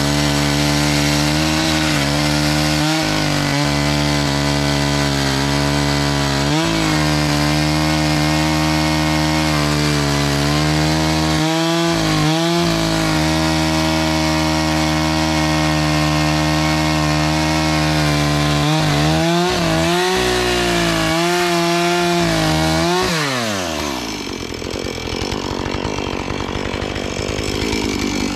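Two-stroke chainsaw running at high revs, its pitch dipping briefly several times as the chain bites into wood. About 23 seconds in the revs fall away and it drops to a quieter, rougher sound.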